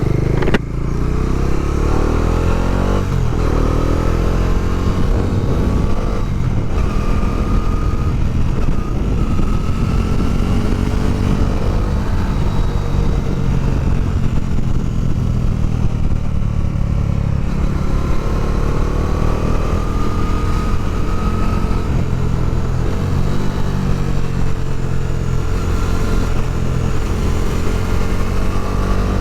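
Bajaj Dominar 400's single-cylinder engine pulling away and revving up, with a break in the rising pitch about three seconds in, then running at riding speed with the pitch rising and falling.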